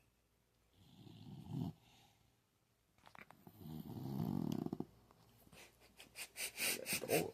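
Sleeping puppy snoring: a soft snore about a second in, a longer, louder one a couple of seconds later, then a quick run of short, sharp breaths near the end.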